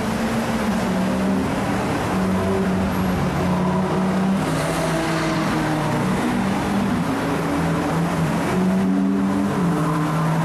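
Ferrari engines running as the cars roll past at low speed, the engine note stepping up and down in pitch with light blips of throttle.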